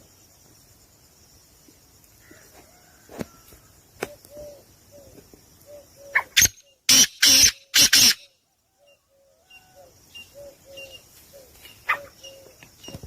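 Birds calling in the background, a short low note repeated about twice a second over a high steady chirring. About six seconds in come several loud rustling bursts, then the sound drops out for over a second.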